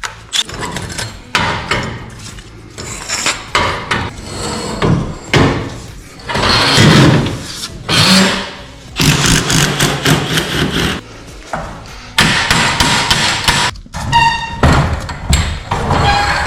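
Repeated hammer blows and tool clatter during garage door repair work, in irregular bursts with louder noisy stretches between.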